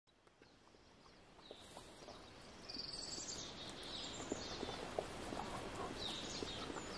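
Birds chirping in the trees over soft outdoor ambience, fading in from silence over the first few seconds, with calls coming about three seconds in and again near the end.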